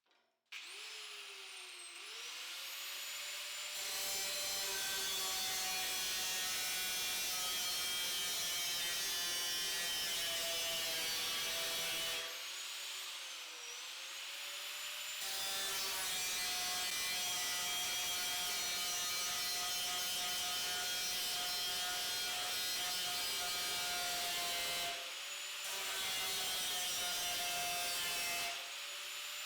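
An electric power tool's motor running steadily, cutting with a rough sawing noise. Its pitch dips and recovers as it spins up in the first seconds, again around the middle, and briefly twice near the end, where the cutting noise drops away.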